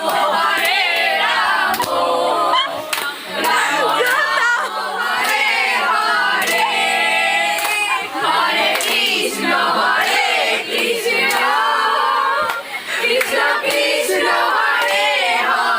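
A group of people singing a song together in loose unison, with hand claps along.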